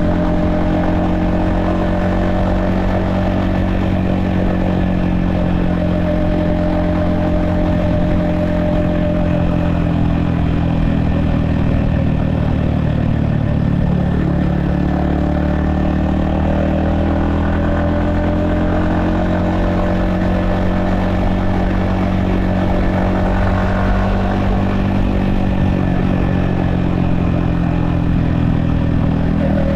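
Yamaha XSR155's 155cc single-cylinder engine running on the move, heard from the rider's helmet. The engine note dips in the middle as the throttle eases and then climbs again.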